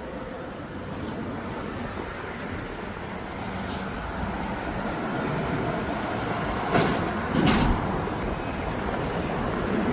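Harley-Davidson motorcycle running, a steady rumble that slowly grows louder, with two short sharp clunks about seven seconds in.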